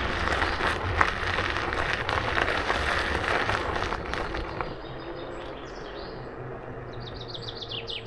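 Riding noise of an electric scooter, a steady rush with a low hum, that dies away about four and a half seconds in as the scooter comes to a stop. A small bird then sings a series of quick, high, descending chirps, densest near the end.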